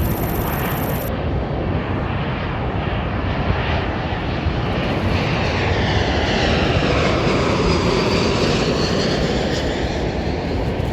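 Airbus A320's IAE V2500 jet engines roaring as the airliner passes close by on its landing approach. The whine falls in pitch as it goes past, about halfway through.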